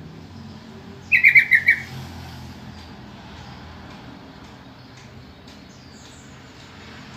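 Yellow-vented bulbul (trucukan) giving one short burst of about six quick, bubbling notes about a second in. It is a lure call, played so that other bulbuls will answer.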